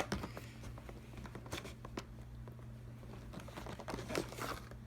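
Faint crinkling and scattered clicks of toy train packaging being handled and pulled at while someone tries to get the box open, over a low steady hum.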